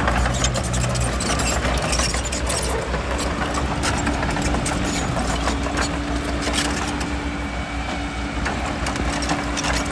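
Bulldozer's diesel engine running steadily, with frequent irregular clanks and rattles over it and a faint steady whine from about three seconds in.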